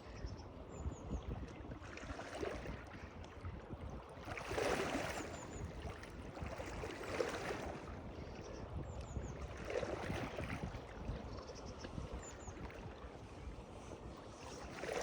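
Water lapping and splashing in regular surges about every two and a half seconds, over a low steady rumble.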